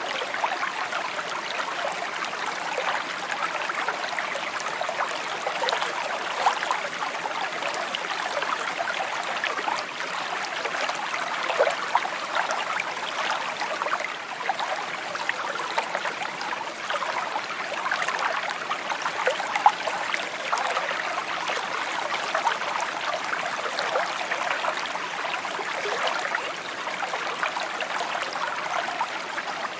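Small stream babbling and trickling over stones, a steady burble with many small splashes and gurgles.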